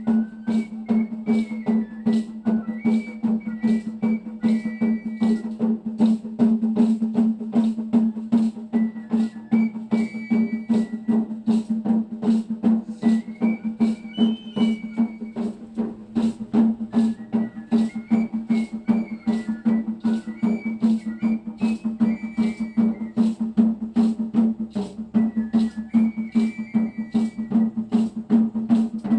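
Music for a danza sonajera: a high melody over a steady low drone, driven by a sharp, even percussive beat of about three strokes a second.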